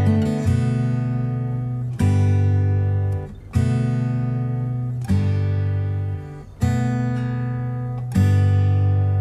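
Background music: an acoustic guitar strumming chords about every second and a half, each chord left to ring and fade before the next.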